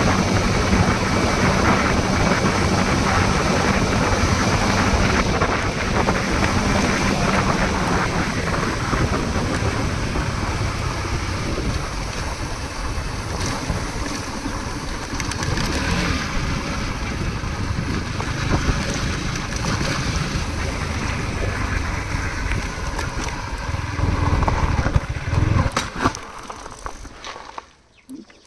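Wind rushing over the microphone with a vehicle engine running underneath. The sound drops away sharply near the end.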